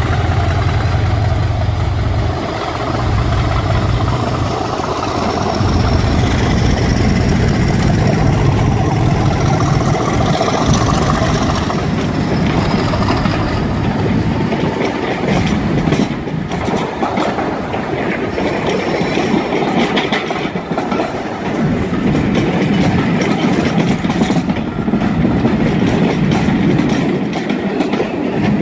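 Diesel locomotive passing close, its engine running loud with a rising whine. Its passenger coaches then roll by, the wheels clicking over the rail joints.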